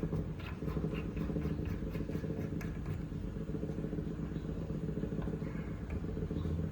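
Steady engine-like drone of a machine running in the background, with scattered faint clicks and taps of small metal parts being handled.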